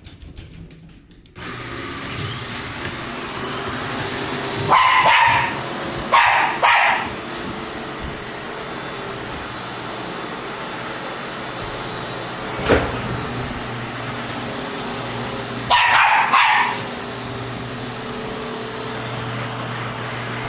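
A vacuum cleaner switches on about a second in and runs steadily, while a mameshiba dog barks at it in three short bursts of barks. There is a single sharp knock about two-thirds of the way through.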